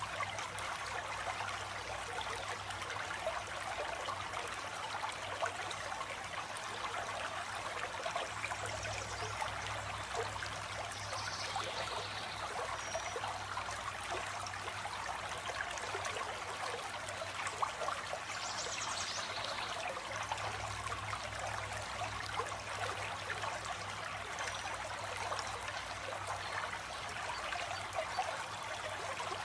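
Flowing water running steadily, a continuous rushing and trickling. A few faint, short, high bird calls come through over it, about five times.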